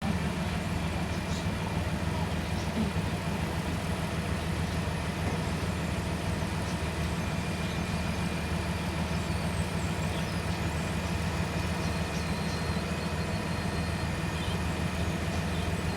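Heavy truck engine idling steadily, a constant low drone.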